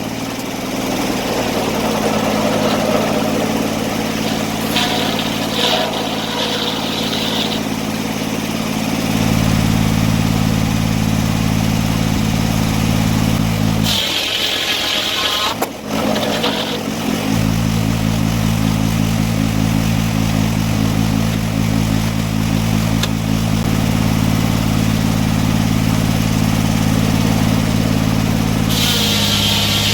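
An engine running steadily at constant speed, with a break of a couple of seconds about halfway through when a higher-pitched hiss takes over before the engine sound comes back.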